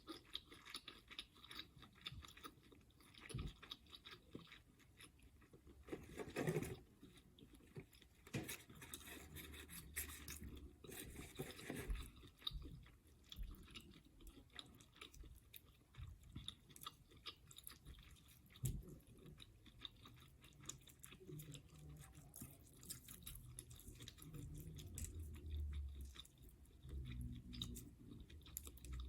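A person chewing and biting seafood, crab legs and shrimp in butter sauce, with irregular wet mouth sounds and sharp crunches every few seconds.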